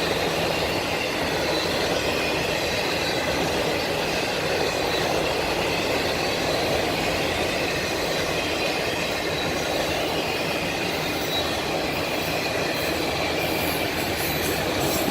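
Freight train of autorack cars rolling past at speed: a steady rumble of steel wheels on rail with a faint high wheel squeal and some clicks near the end.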